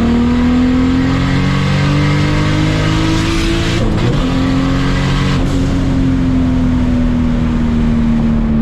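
Turbocharged Toyota Supra Mk4 inline-six pulling hard in third gear, its pitch climbing for about four seconds. Near four seconds the engine briefly breaks off as the throttle lifts, then it holds and slowly drops in pitch.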